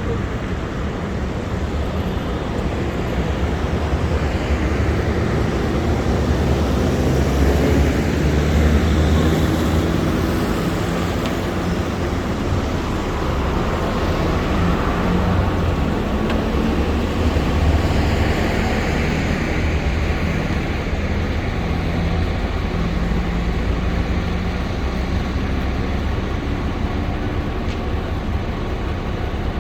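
City street traffic: engines of cars and buses running close by, with a steady hiss and vehicles swelling past, loudest around eight to ten seconds in.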